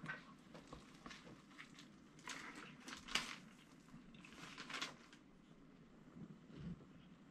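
A person biting into a sub sandwich and chewing it, heard as a few soft, short crunching sounds with quiet gaps between.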